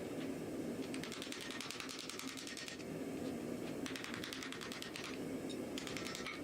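Rapid runs of hammer blows on hot iron, several strikes a second in bursts of one to two seconds, typical of a power hammer drawing out an axe blank, over a steady low roar.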